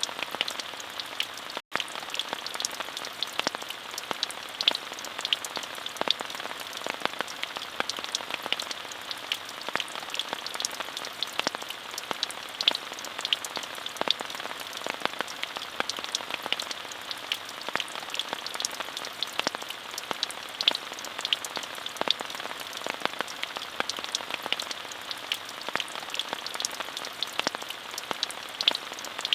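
Steady, even rain with many individual drops ticking through a soft hiss. There is a split-second gap in the sound about two seconds in.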